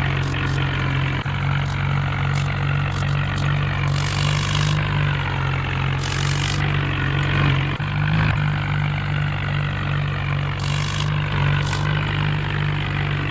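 Diesel tractor engine running steadily and loudly, with short bursts of high hiss about four times.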